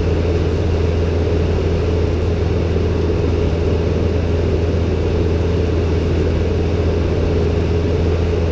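Robin DR400-120's four-cylinder Lycoming engine and propeller running steadily in cruise, a constant low drone heard from the cockpit.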